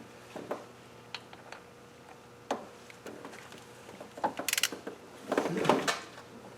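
Hand tools being handled and worked on a bolt: scattered light metallic clicks and taps, with two short runs of quick rattling clicks about four and five and a half seconds in.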